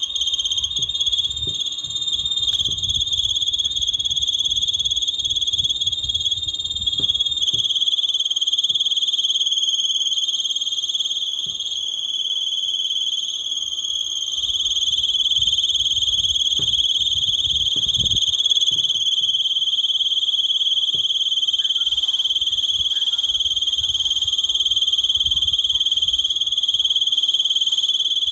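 LG split-type air conditioner running on high fan speed, making a loud, steady, high-pitched chirping buzz: the abnormal noise it gives at high speed. Low rumbling comes and goes in places.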